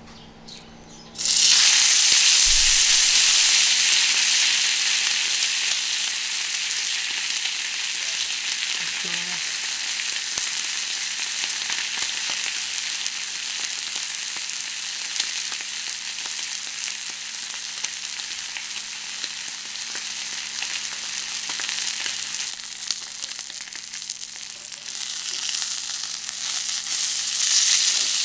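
A thick beef sirloin steak sizzling on a hot iron griddle. The sizzle starts suddenly and loud about a second in as the meat meets the hot iron, eases to a steady sizzle, and swells again near the end.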